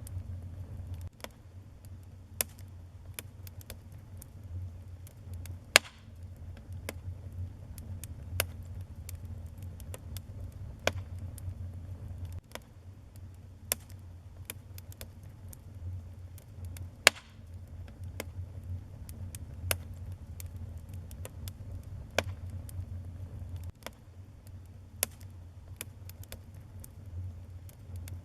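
Wood fire burning in a fireplace: a steady low rumble of the flames with irregular crackles and pops of the burning wood, a few pops much sharper than the rest.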